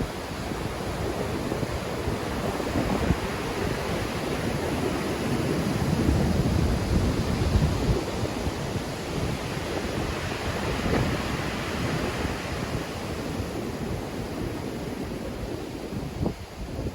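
Black Sea surf in strong wind: a continuous wash of breaking waves with wind buffeting the microphone, swelling louder about halfway through.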